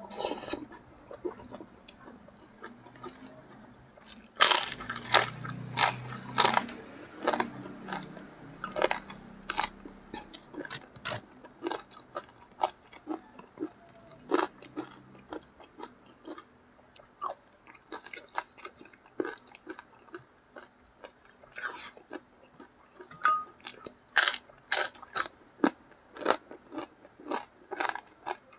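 Close-miked eating: a person chewing and crunching mouthfuls of food, with wet mouth clicks. The crunches come thick about four seconds in and again near the end, with sparser chewing between.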